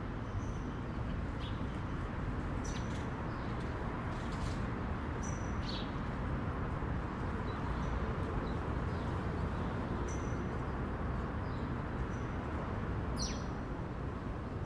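Birds chirping in short, scattered high calls over a steady low background hum.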